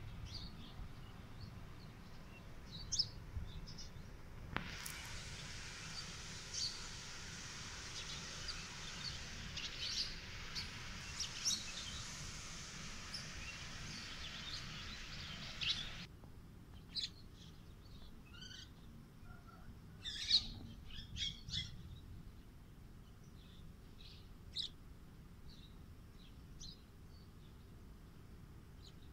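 Birds chirping and calling in short scattered notes. A steady high hiss comes in suddenly about four seconds in and cuts off suddenly past the middle.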